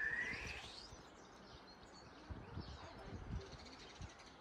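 Faint outdoor birdsong: one rising chirp at the start, then scattered small chirps, with a few low rumbles mixed in.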